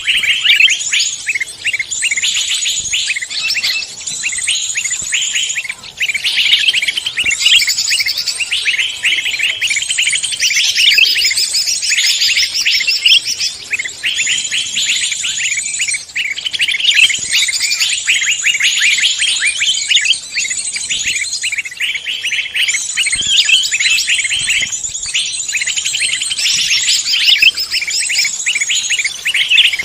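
A dense chorus of many songbirds singing at once, with fast high-pitched trills and chirps overlapping without a break.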